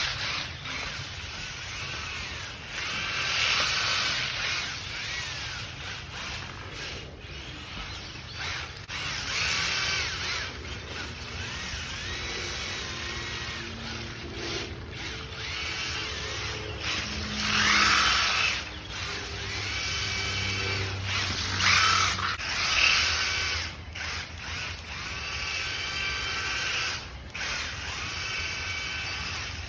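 Brushed electric motor and geared drivetrain of a 1/10-scale Losi V100 RC car whining in repeated bursts, the pitch rising and falling as the throttle is worked.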